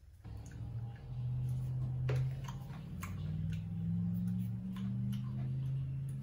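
Wet chewing and lip-smacking clicks of a person eating rice with their fingers. Under them runs a low hum that shifts to a new pitch every second or two.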